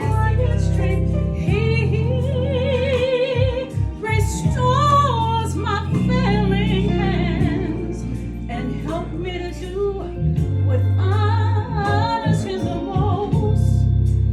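A song: a high singing voice with wide vibrato, holding long notes over sustained low accompaniment.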